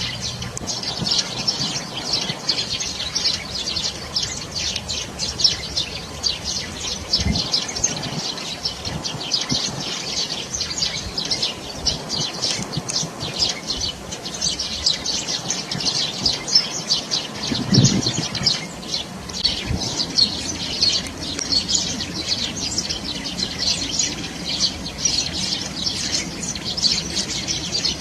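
Eurasian blue tit chirping: a rapid, continuous stream of high, thin calls, with a couple of brief low thumps.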